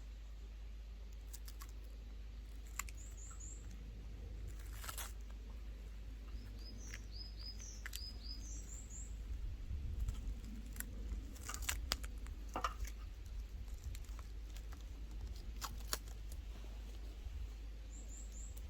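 Small birds chirping in short quick runs of falling high notes, a few times, over a steady low background hum, with scattered sharp clicks and knocks.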